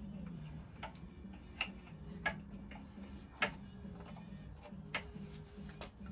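Light, sharp metallic taps and clicks, about five of them, irregularly spaced a second or so apart: tools and parts knocking against the metal of the engine as it is worked on.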